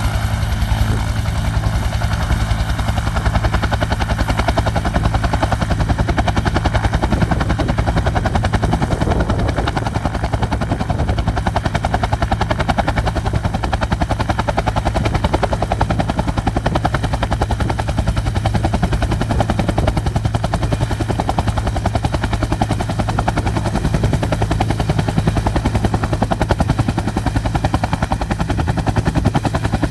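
Bell UH-1D Huey helicopter taking off: its T53 turboshaft engine and two-bladed main rotor running loudly, with a fast, even beat of blade slap over a steady low hum.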